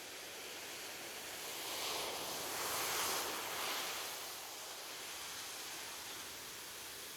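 Gentle ocean waves on a beach: a steady hiss of surf, with one wave swelling to a peak about three seconds in and then washing back out.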